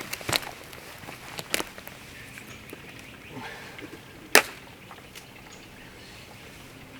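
Footsteps through woodland brush: a few sharp snaps of breaking sticks, the loudest about four and a half seconds in, over a quiet background.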